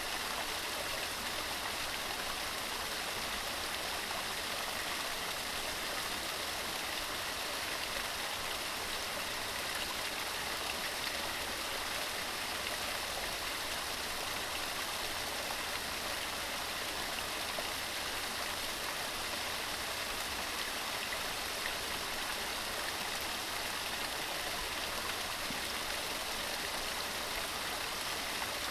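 Fell stream running over rocks: a steady rushing of water with no change in level.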